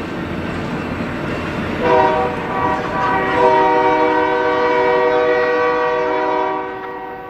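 Passing train rumbling, then a locomotive air horn sounding a multi-note chord from about two seconds in: a short blast, then a long one that fades away near the end as the train moves off.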